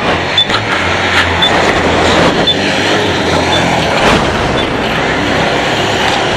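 Yamaha Aerox scooter engine running, with road and vehicle noise around it. A low hum fades about four seconds in, and faint short high beeps come about once a second.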